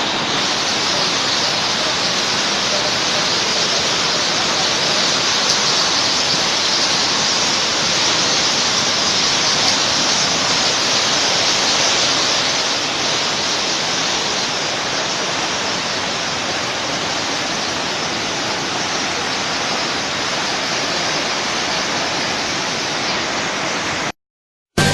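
Loud, steady rushing of water, even and unbroken, cutting off abruptly shortly before the end.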